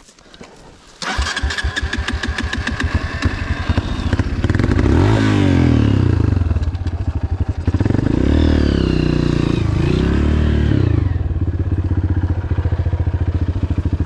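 Dirt bike engine catching about a second in, then revved up twice and left running at a fast, steady idle.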